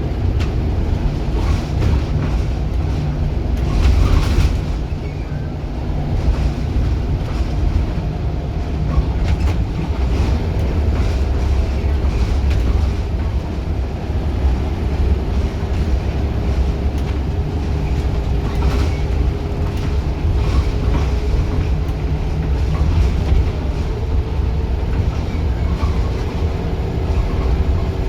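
A Scania Wright Solar single-deck bus on the move: a loud, steady, low engine drone with scattered knocks and rattles from the body.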